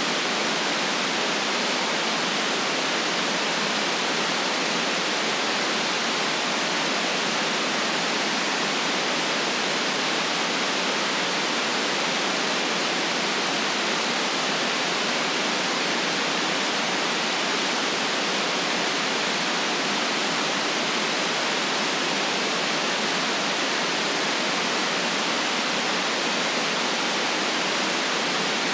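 Generated white noise: a steady, even hiss with no rumble at the bottom and nothing else in it.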